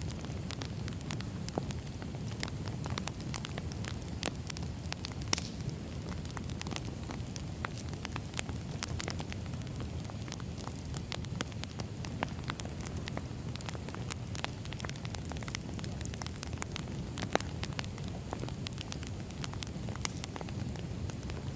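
Burning wood fire crackling: a steady low rumble of flames with frequent sharp pops and snaps, a few louder pops scattered through.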